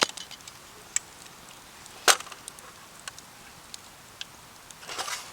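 Wood campfire crackling, with irregular sharp pops, one loud pop about two seconds in and a short flurry of crackle near the end.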